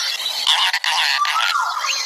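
Green talking parrot chattering: rapid raspy chatter full of clicks, with a short whistled tone in the second half.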